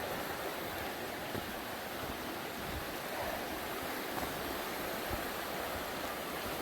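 Steady rushing of a river running high after heavy rain.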